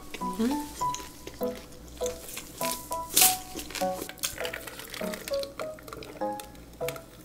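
Close-miked wet chewing of a mouthful of kimchi, short crackling and squelching clicks, over light background music of short plucked notes.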